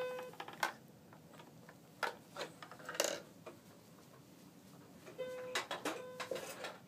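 A toy playing short, steady electronic tones at the very start and again about five seconds in, with a few clicks and knocks of toys being handled in between.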